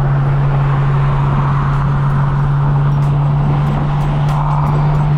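Straight-piped BMW M4 F82's twin-turbo inline-six exhaust running steadily at constant revs, with road noise.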